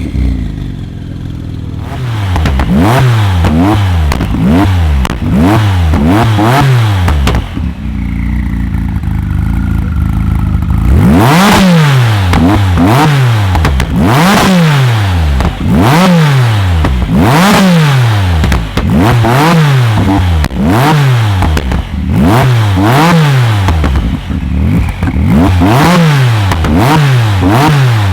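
A tuned car's engine revved hard through its exhaust over and over in short blips, about one a second, pitch shooting up and dropping back each time. It settles to a steadier idle for a few seconds midway, then the rapid revving starts again.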